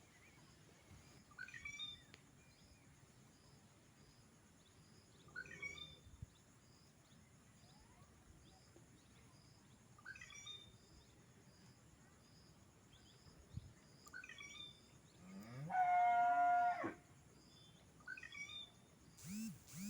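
A bird gives a short, sweet call of a few falling notes, repeated about every four seconds. About sixteen seconds in, a louder, drawn-out animal call lasts over a second.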